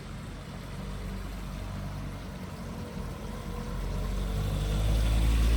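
A motor vehicle drawing closer, its engine rumble and tyre noise growing steadily louder toward the end.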